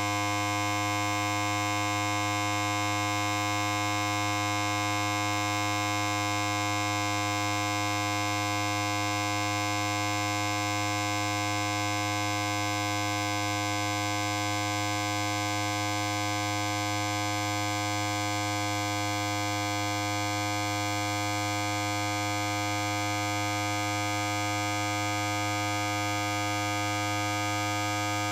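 Electric hair clipper running with a steady, unchanging low buzz rich in overtones.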